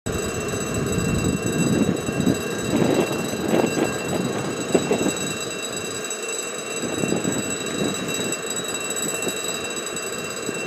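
A D1 diesel multiple unit running along the track: a continuous rumble with irregular knocks from the wheels and a steady high whine over it.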